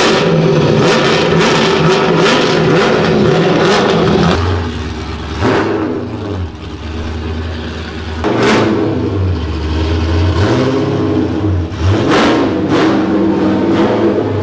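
Car engine running and revving as the car is driven. It eases off about four and a half seconds in and picks up again around eight seconds.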